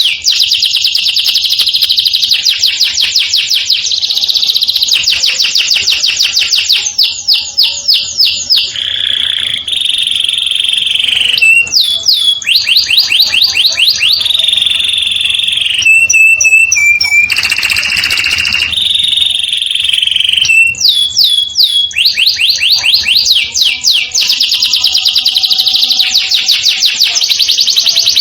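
Domestic canary singing continuously in full song: long, rapid rolling trills, with a stretch of held and gliding whistled notes near the middle before the rolls resume.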